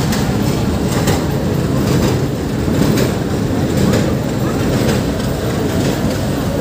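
Diesel-hauled passenger train rolling slowly past: a steady low rumble of the locomotive and coaches, with wheels knocking over rail joints every second or two.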